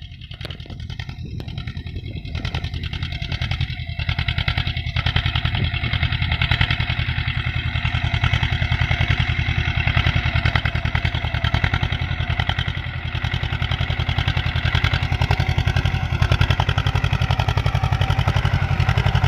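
Swaraj 724 FE tractor's two-cylinder diesel engine running with a steady, even beat. It grows louder over the first few seconds, then holds steady.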